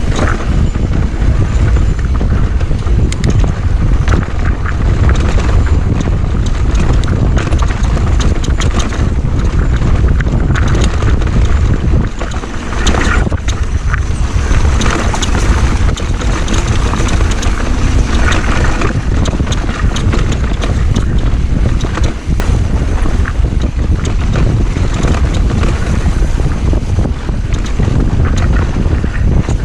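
Wind buffeting an action camera's microphone on a mountain bike moving along a rocky trail, mixed with frequent rattles and knocks from the bike and its tyres on rock.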